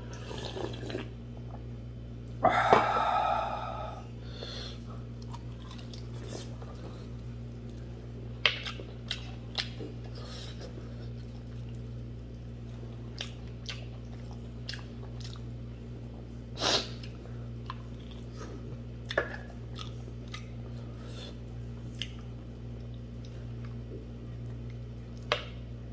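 A person chewing buffalo leg meat and rice, with wet mouth sounds and scattered sharp clicks. A louder, longer sound comes about two and a half seconds in, over a steady low hum.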